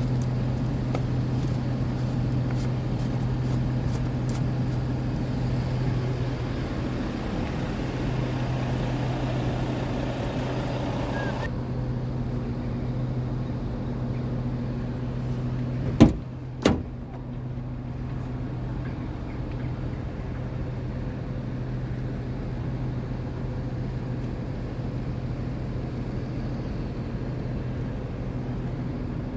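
Scania G truck's diesel engine idling steadily. Two sharp knocks come in quick succession about halfway through.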